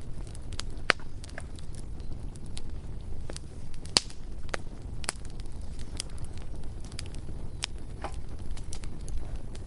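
Bonfire crackling: irregular sharp pops and snaps over a low, steady rumble, with the loudest pops about one and four seconds in.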